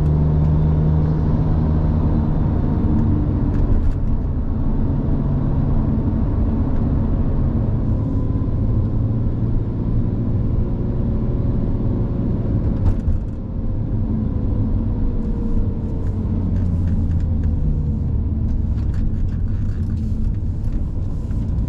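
2007 Porsche 911 Turbo's twin-turbo flat-six running steadily while driving, with tyre and road noise. The engine note eases gradually lower through the middle, as if the car is slowing.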